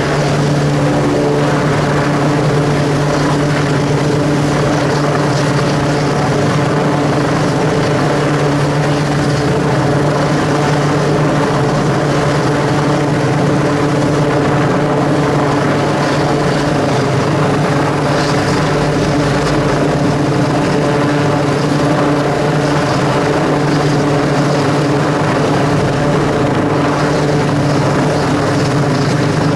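Helicopter running steadily during a winch rescue: an even rotor and turbine sound with no change in level.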